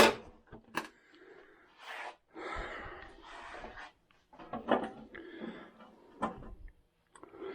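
Workshop parts being handled on a workbench: a sharp knock as something is set down at the start, then irregular scraping and rustling with a few lighter knocks.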